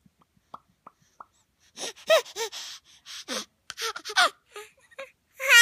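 A voice making deliberate vocal noises on cue: faint mouth clicks, then a run of breathy gasps with swooping pitch, then a loud wavering wail starting near the end.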